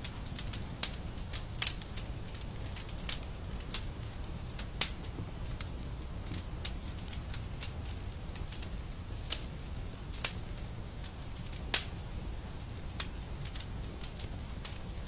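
Wood fire crackling in a fireplace: irregular sharp pops and snaps over a steady low rumble, one pop louder than the rest near the end.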